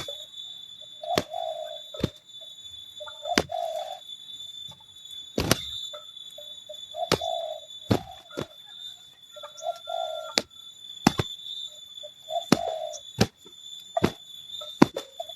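Spotted doves cooing, a short low coo every couple of seconds, with sharp clicks and knocks in between. A steady high-pitched whine runs underneath.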